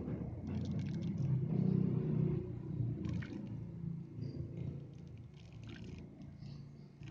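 Low mechanical rumble that swells to its loudest about two seconds in, then fades away steadily.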